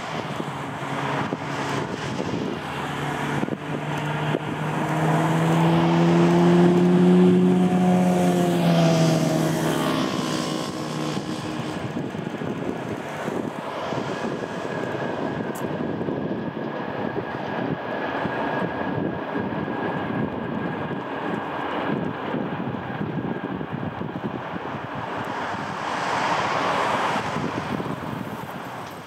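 A train passing: a locomotive's deep drone swells and then drops in pitch as it goes by, followed by a long run of wagons rumbling and clattering over the rails.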